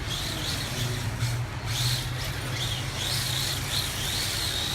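Redcat Lightning EPX Drift RC car's brushed electric motor whining, its pitch rising and falling repeatedly as the throttle is worked.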